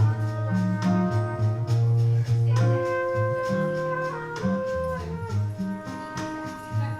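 Live small jazz combo playing an instrumental passage: a lead line of held, sustained notes over a moving low line on guitar, with light percussion.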